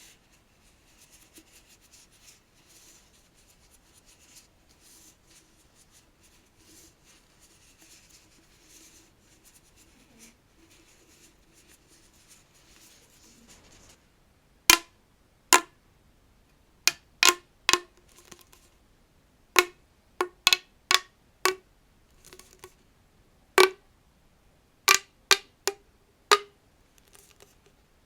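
Collapsible plastic tube being handled: faint scratching on it for the first half, then from about halfway a string of sharp, loud pops at irregular intervals, each with a brief ring.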